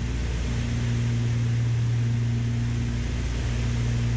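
Steady drone of a Beechcraft Baron B55's twin six-cylinder piston engines and propellers in cruise descent, heard inside the cockpit: a deep, even hum with a rushing noise above it.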